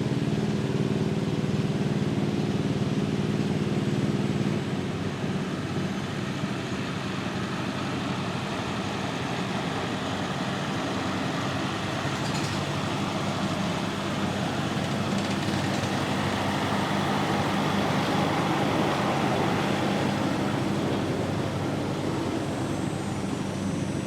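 Garden tractor engine running: a steady tone for about the first five seconds, then a rougher, louder run that builds and peaks near the end.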